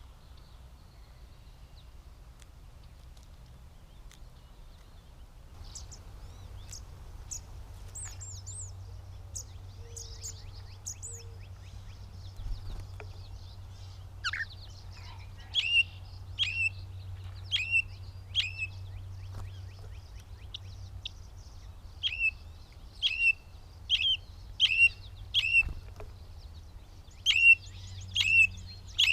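Gray catbird calling. Faint high chirps come first, then from about halfway through a run of loud, identical down-slurred notes, repeated about every two-thirds of a second, over a steady low hum.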